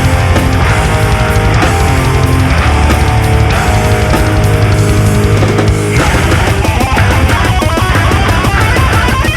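Live heavy metal band playing an instrumental passage: distorted guitars, bass and drums, loud and dense, with the part changing about six seconds in.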